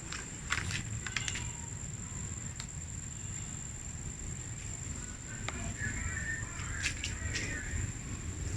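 Outdoor background with a steady high-pitched insect-like tone, a few scattered sharp clicks, and a short spell of chirping about six seconds in.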